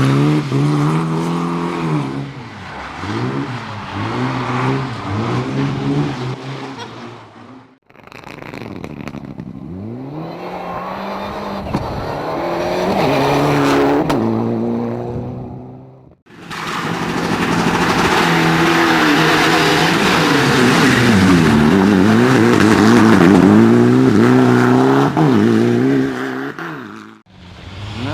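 Competition car engines at full throttle, the pitch climbing and falling again and again as the drivers shift through the gears. The sound breaks off abruptly twice, about a third and again about halfway through, and once more near the end, where one car gives way to the next.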